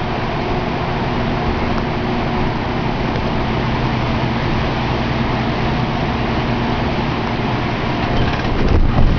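Street noise on a rainy day: a motor vehicle's engine runs close by over a steady hiss, with a low even hum. Near the end, louder irregular knocks and rustles begin.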